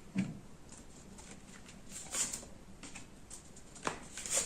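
Tarot cards handled on a table: a soft tap just after the start, then brief swishes of cards sliding, about two seconds in and again at the end, with a small click just before the last one.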